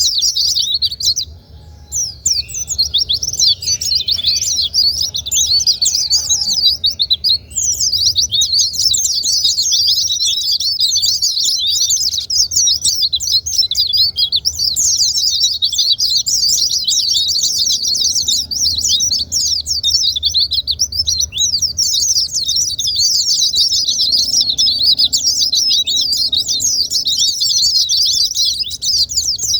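White-eye (pleci) song: a rapid, continuous, high-pitched twittering warble of many quick notes, with a short break about a second and a half in. It is a lure track, played to stir caged white-eyes into singing.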